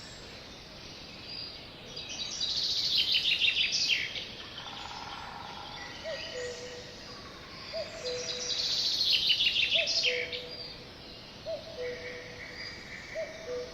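Songbirds singing: two loud songs of rapid notes, about two seconds long each, near the start and again midway. From about the middle on, a lower short call repeats steadily about once a second or a bit slower.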